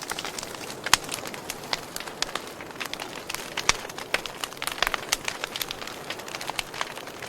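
Wood fire crackling: a steady hiss of burning broken by many sharp, irregular pops and snaps, a few of them louder, such as one about a second in.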